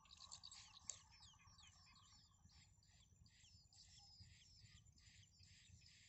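Small birds at a nest giving faint, high, thin chirps that fall in pitch, in a quick regular series of about two or three a second, busiest in the first second.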